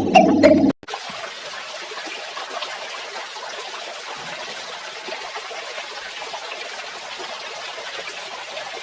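A small motor humming with clicks, cut off abruptly under a second in. Then a steady stream of water splashing and trickling.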